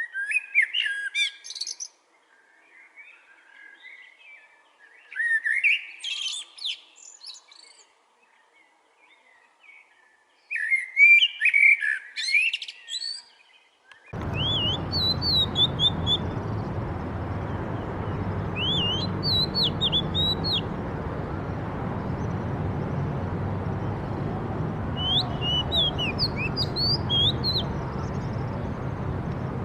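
Songbirds singing: three separate bursts of rapid, varied song with quiet between them, then, about halfway through, an abrupt change to a steady noisy background with short, repeated whistled chirps over it.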